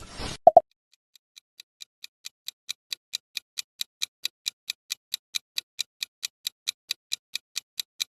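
Rapid, even ticking, about four to five ticks a second, growing louder over the first couple of seconds and then steady; it opens with a brief hiss and two short beeps.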